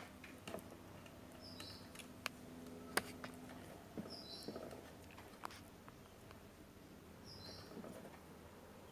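Scattered light clicks and taps from small hand tools and components during circuit-board work on an LED TV's power supply, the sharpest about three seconds in. Three short high chirps come at roughly three-second intervals over a faint steady hum.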